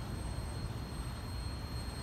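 Freight train of autorack cars rolling by as its last car passes, a steady low rumble.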